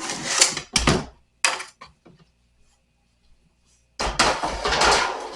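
Wooden nightstand parts being handled during disassembly: rough scraping and knocking in the first second and a half, then, after a pause of about two seconds, a longer scraping rub.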